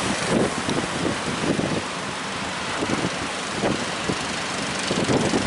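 Boat engine running under strong wind buffeting the microphone, with waves splashing against the hull.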